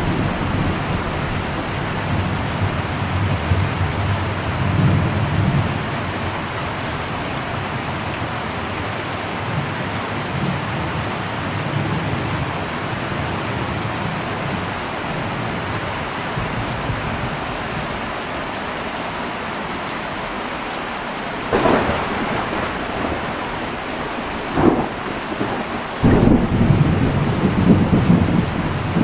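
Heavy rain drumming steadily on an old metal roof, with thunder: a low rumble in the first few seconds, two sharp cracks in the last third, and a loud rolling rumble over the last few seconds.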